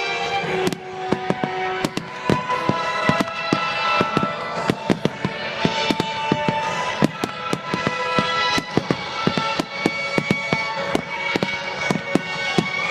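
Aerial fireworks bursting in a rapid, irregular string of sharp bangs, often several a second, over music with held notes.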